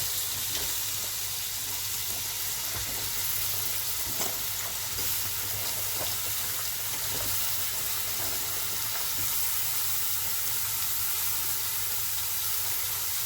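Wet, freshly washed cabbage sizzling in hot oil in a curry pan: a steady loud hiss, with a few light clicks.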